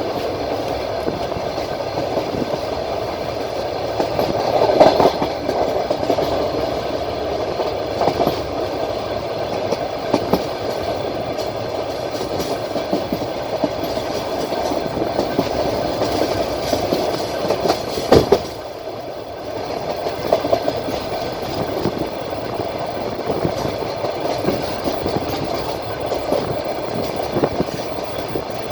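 Train wheels rolling on the rails, heard from a moving train, with a steady running noise and scattered clicks as the wheels pass rail joints. A sharp knock comes about 18 seconds in, and the noise drops briefly just after it.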